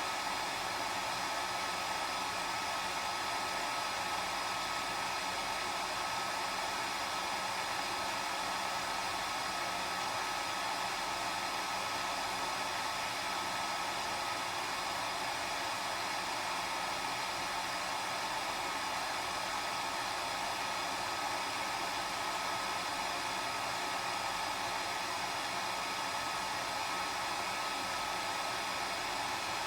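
Hair dryer running continuously at a steady speed: an even rush of air with a steady whine from the motor and fan.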